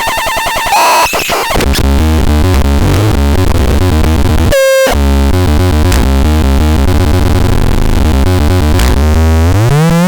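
Harsh, glitchy electronic synthesizer noise over a heavy, pulsing low bass. A brief clean electronic tone sounds about four and a half seconds in, and a rising pitch sweep begins near the end.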